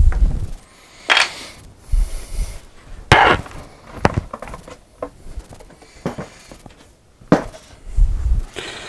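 Irregular knocks and clunks of wooden parts being handled, with a handful of sharp raps spread through and some duller thuds between.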